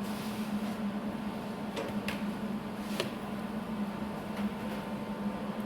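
A steady low electrical hum with a few light clicks, twice close together about two seconds in and again around three and four seconds.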